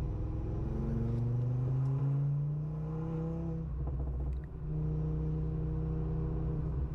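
Audi S1's swapped-in RS3 2.5-litre five-cylinder engine pulling hard on track. The revs climb over the first couple of seconds and then hold, dip briefly about four and a half seconds in, then pull steadily again.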